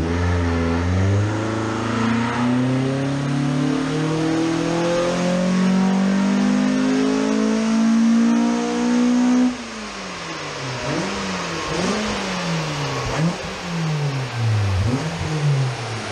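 Ford Focus ST170's four-cylinder, breathing through individual throttle bodies, making a full-throttle power run on a rolling-road dyno, its revs climbing steadily for about nine and a half seconds. Then the throttle shuts suddenly, and the revs fall and rise several times as the car slows on the rollers.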